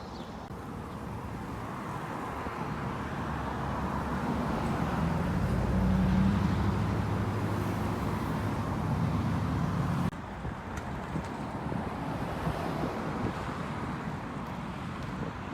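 Road traffic noise, with a motor vehicle passing close: the sound builds to its loudest about six seconds in, then drops abruptly about ten seconds in.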